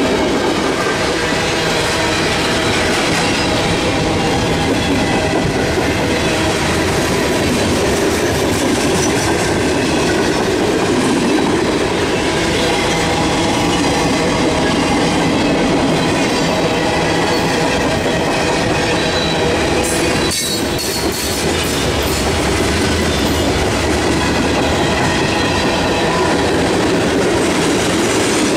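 Freight cars of a CSX mixed freight train rolling past close by: a steady, loud rumble and clatter of steel wheels on the rails, with a thin wheel squeal over it.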